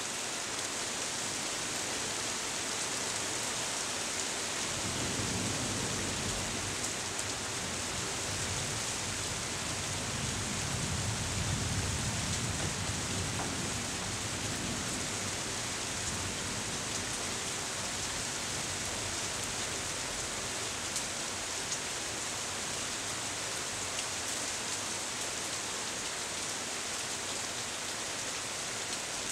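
Steady rain falling on leafy trees: an even hiss with occasional drop ticks. A low rumble swells twice, about five seconds in and again around eleven seconds in.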